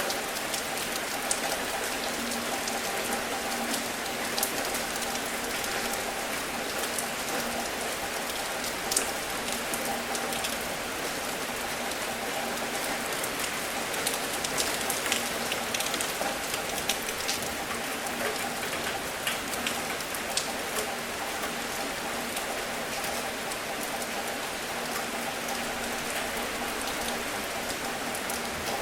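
Steady rain falling, with many distinct drops ticking on a surface, more of them in the middle stretch. A faint steady hum sits underneath.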